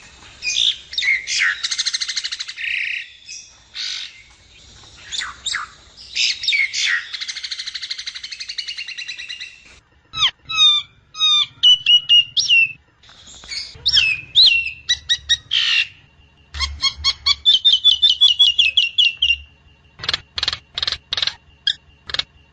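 Nias hill myna calling: harsh, raspy screeches for the first half, then loud sharp whistled notes and a quick trill-like run, then a string of short sharp notes about two a second near the end.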